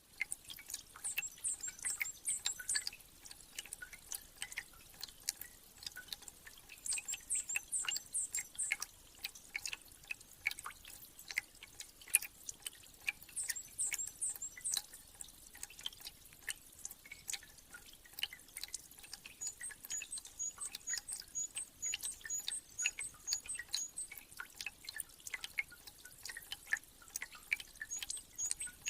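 Spring meltwater dripping in irregular drops. Small birds twitter in short high bursts a few times. From about two-thirds of the way in, a bird repeats a short high note about twice a second.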